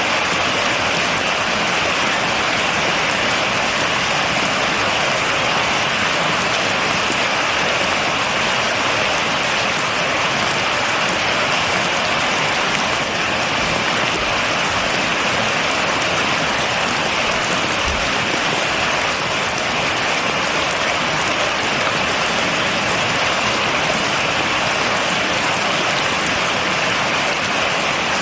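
Steady rain falling, a dense, even hiss of drops striking a surface, with no thunder.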